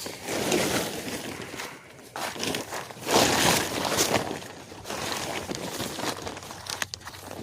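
A tarp rustling and crinkling in irregular bursts as it is unfastened and pulled off a sawmill, loudest about three seconds in.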